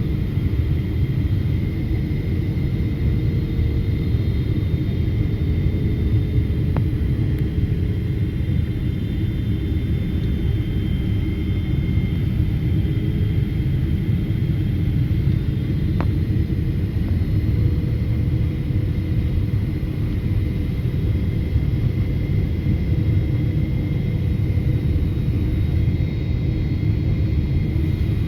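Steady rumble of a jet airliner's engines, with a faint steady whine above it that does not change.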